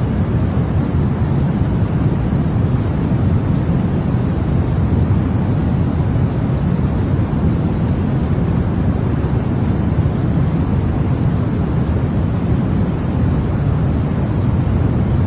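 Continuous sleep noise of the white-noise kind: an even, unchanging rush, deep and heavy in the low end, with no rhythm or breaks.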